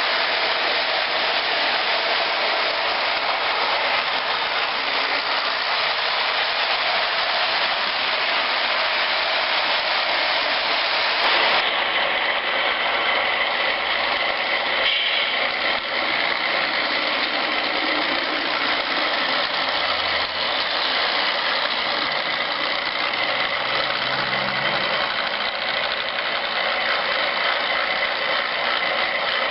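A train running by: a loud, steady, dense noise that shifts slightly about eleven seconds in.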